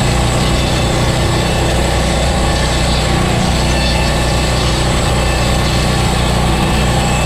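Portable sawmill's gas engine running steadily.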